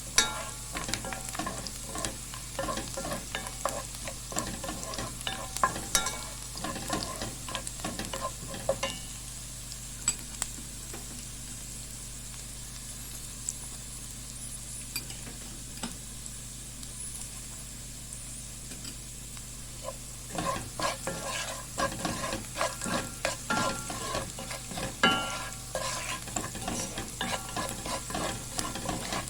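Food sizzling as it fries in a pan while a utensil scrapes and stirs it. The stirring stops for about ten seconds in the middle, leaving only the steady sizzle, then starts again.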